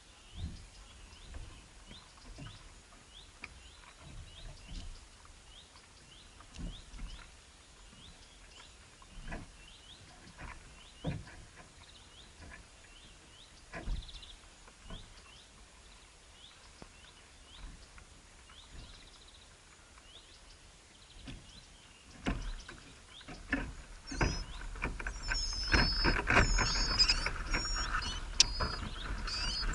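A small bird chirping repeatedly, a short slightly rising note about once or twice a second, with soft knocks and scuffles. Near the end the rustling grows louder and a burst of higher, quicker chirps joins in.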